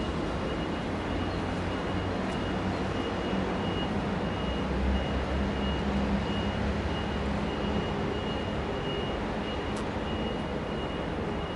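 Low rumble of a passenger train rolling away into the distance, swelling a little midway. A thin, steady high-pitched tone runs over it.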